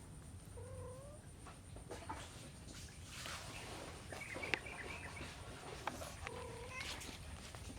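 Kitten mewing faintly, two short rising mews, with scattered small clicks and rustling around it.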